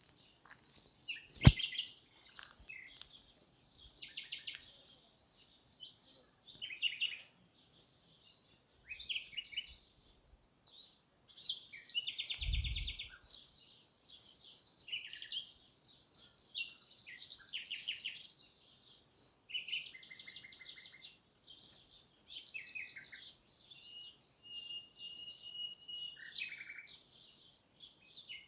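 Several small birds chirping and singing in short phrases and trills throughout. A sharp click about a second and a half in, and a short low thump near the middle.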